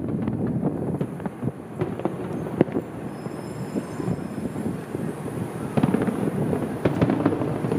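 Distant aerial fireworks shells bursting: a run of pops and crackles over a steady rumbling background, with one sharper bang between two and three seconds in and a thicker cluster of cracks near the end.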